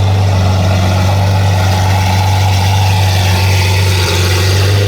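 A car engine running steadily, with a constant low drone and no revving.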